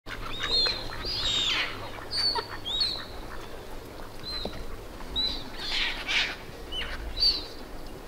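Birds calling: a run of about a dozen short, high chirping calls with quick up-and-down pitch glides, mixed with a few harsher, noisier calls about a second in and again around six seconds.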